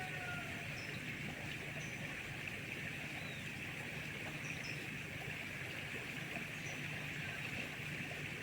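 Rainforest river ambience: water flowing steadily under a constant high drone, with a few short high chirps scattered through it.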